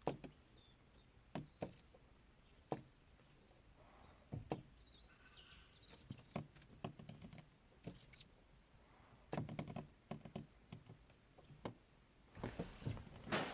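Irregular, sharp light taps and knocks, singly and in small quick clusters: superb fairy wrens pecking at the car.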